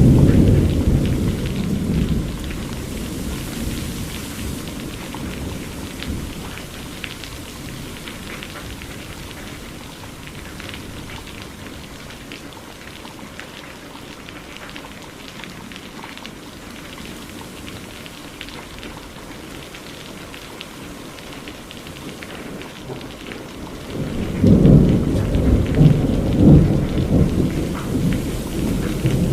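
Steady rain pattering, with rolls of thunder: one rumble dies away over the first few seconds, and another, louder one rolls in about 24 seconds in and carries on to the end.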